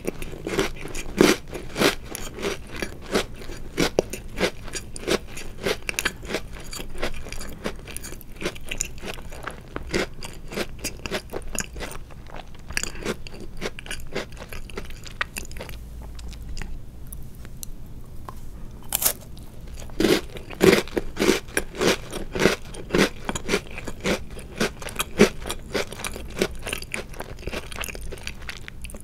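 Person chewing chocolate-covered Oreo cookies: a steady run of crisp crunches that thins out for several seconds midway, then a sharp crunch of a fresh bite and a burst of louder chewing.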